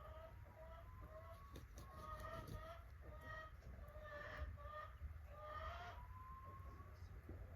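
Chickens clucking: many short, overlapping calls throughout, faint, over a low rumble.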